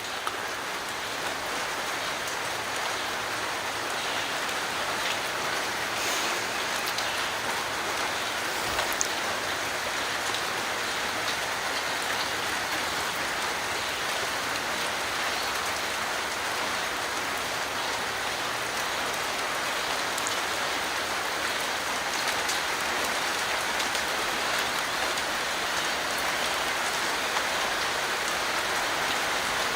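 Steady rain falling: an even hiss, with a few faint drip ticks.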